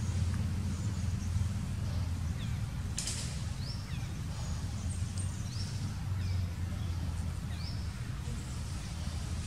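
Outdoor ambience: a steady low hum underneath, with about half a dozen short, high rising bird chirps scattered through the middle, and one sharp click about three seconds in.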